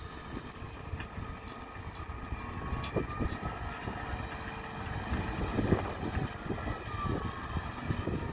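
Heavy harvest machinery running in the field, a steady engine and drive whine with a tone that rises and then falls again across a few seconds as a machine works or passes.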